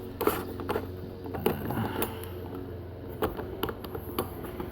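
Scattered light metallic clinks and taps as a brass fuel-line fitting is handled and turned into place, over a steady low hum.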